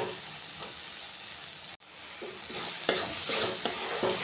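Thick onion-tomato masala frying in oil in a kadhai, sizzling while it is stirred and scraped; it breaks off for an instant about two seconds in, and the scraping strokes come louder near the end. The masala is fully fried, at the stage where the oil separates at the sides.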